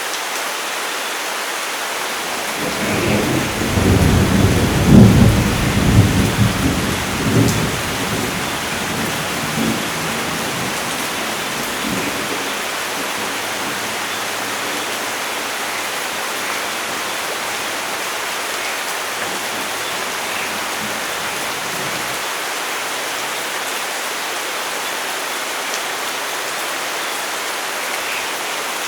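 Steady rain with a long roll of thunder that builds about three seconds in, swells several times, and dies away after about ten seconds while the rain keeps falling.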